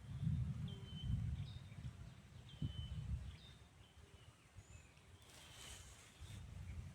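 Outdoor ambience: a bird gives short, high chirps about once a second over an uneven low rumble, with a brief rustle near the end.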